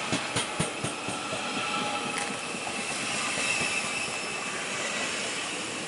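A DB Regio electric multiple-unit train rolling past close by: a quick run of about four wheel clicks over rail joints in the first second, then a steady rolling rumble with a faint high wheel squeal.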